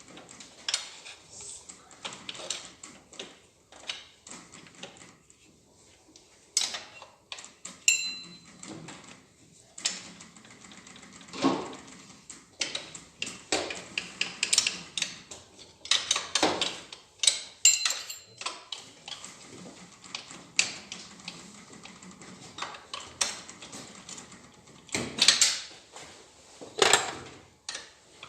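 Hand tools and loose metal engine parts, the camshaft bearing caps of a G4NA cylinder head, clinking and knocking irregularly as they are unbolted and lifted off, with a few ringing metallic clinks.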